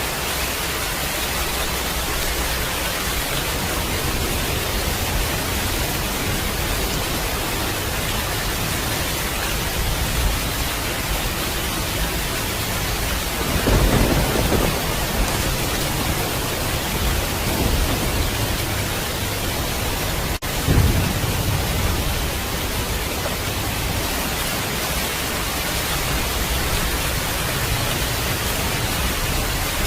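Steady rain hissing, with thunder rumbling twice: a longer rumble about halfway through and a shorter one about two-thirds in. There is a momentary break in the sound just before the second rumble.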